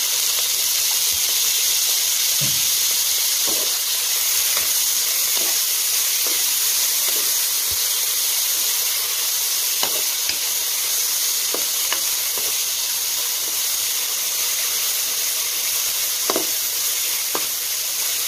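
Julienned carrot, green capsicum and onion sizzling steadily in hot oil in a non-stick wok. They are stirred with a wooden spatula that knocks lightly against the pan every second or so.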